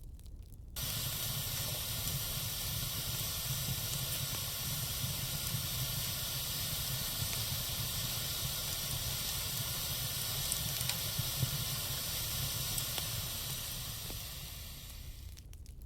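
Wood fire hissing steadily, with a low rumble underneath and a few faint crackles. The hiss starts abruptly about a second in and fades away near the end.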